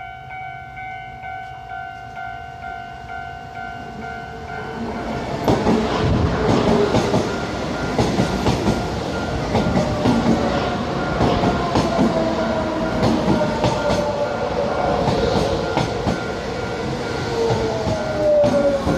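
A level-crossing warning bell rings steadily as a Taiwan Railway local electric train (EMU) approaches. From about five seconds in, the train passes close by, its wheels clacking over the rail joints, and a motor whine falls in pitch as it slows to stop at the station.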